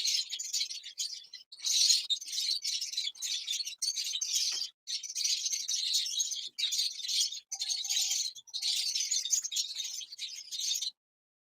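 A flock of small cage birds chattering and chirping nonstop in high-pitched calls with only short breaks, cutting off abruptly near the end.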